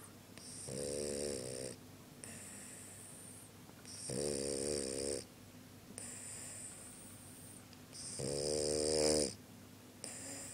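Sleeping dog snoring: three loud, pitched snores about every three and a half seconds, with a quieter high hiss of breath between them.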